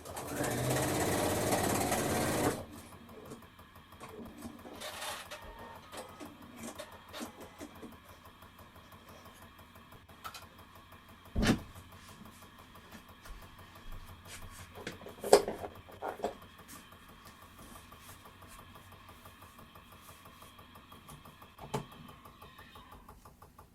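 Domestic sewing machine stitching steadily: a motor hum with rapid needle ticking, stopping shortly before the end. It is sewing over a small tear where a seam was missed. A brief louder rushing noise fills the first two and a half seconds, and a few sharp knocks come along the way.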